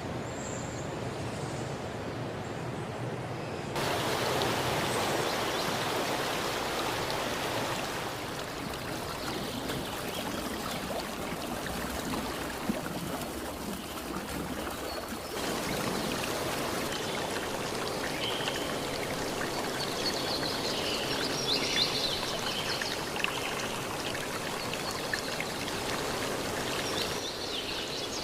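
Steady rushing of a stream flowing over rocks, stepping abruptly louder or softer a few times where one recording gives way to another. High chirping calls come in over the water in the second half.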